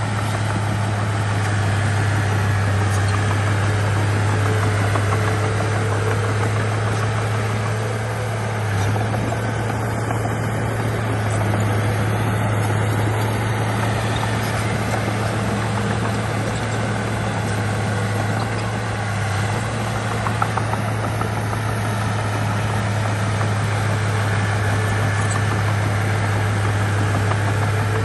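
Heavy diesel engine of earthmoving machinery running steadily, a constant low drone with no change in pace.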